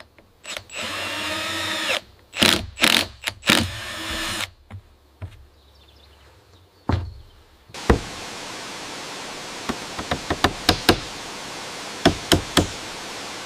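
A power drill runs briefly with a steady whine, then a series of sharp knocks on wood follows. About eight seconds in, a steady rushing noise like falling water begins, with quick clusters of taps over it.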